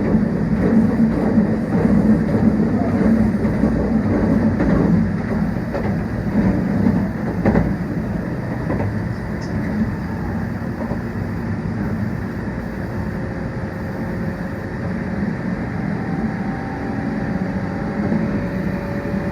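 Meitetsu 1800 series electric train running at speed, heard from inside the car: a steady rumble of wheels and running gear on the rails, with a few sharp clacks from the track.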